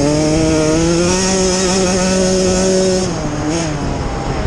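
Off-road motorcycle engine running at high revs, its pitch held steady, then dropping and fading about three seconds in as the rider backs off.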